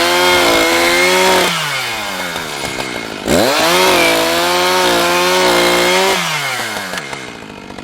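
Two-stroke chainsaw cutting scrap slab pieces into firewood. It runs at full throttle, is let off about a second and a half in, is throttled up again about three seconds in, and then winds down toward idle near the end.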